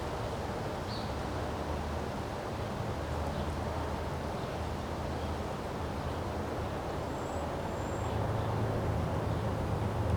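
Wind blowing, with a steady low rumble that grows louder about eight seconds in.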